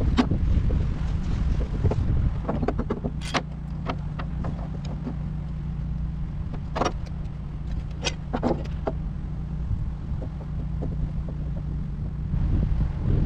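An engine running steadily with a low hum, with sharp clicks and knocks at intervals: one at the very start, one a little over three seconds in, and a cluster around seven to nine seconds in.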